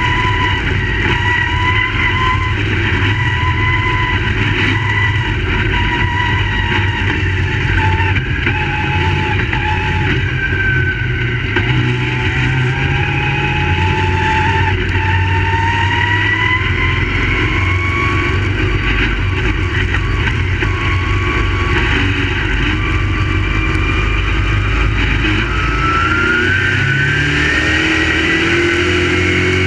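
Crate late model race cars running laps, their V8 engines revving up and down as they lap. The revs climb steadily over the last few seconds.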